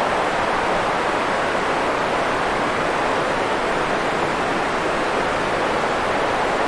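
Steady, unchanging white noise: an even hiss, fuller in the middle than at the top or bottom, with no rhythm or separate events.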